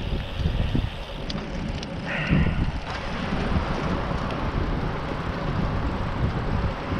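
Wind buffeting the microphone while riding a bicycle along a trail, a steady noisy rush heaviest in the low range. A brief higher-pitched sound comes through about two seconds in.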